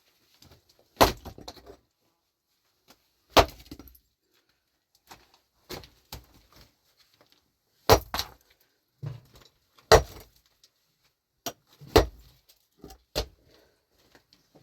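Pickaxe striking stony ground about every two seconds, each blow a sharp hit followed by a short rattle of loosened earth and stones.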